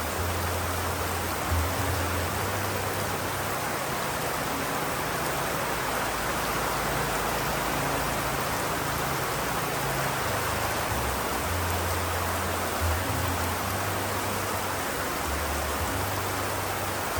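Steady, even rain. Under it runs a low hum of held notes that shift in pitch every few seconds.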